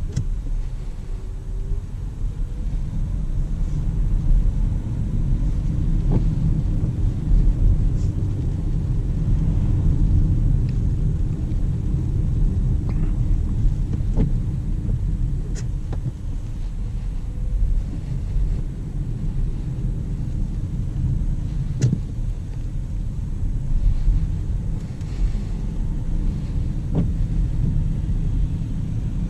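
2019 Jaguar I-Pace battery-electric SUV driving, with a steady low rumble of road and tyre noise. A few short knocks come through now and then, and a faint rising whine appears early on.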